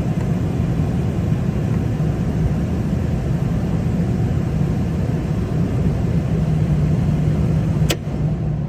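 Steady low machinery rumble from a Lennox rooftop HVAC unit running on a fan-only call, with a single sharp click near the end, after which the sound drops a little.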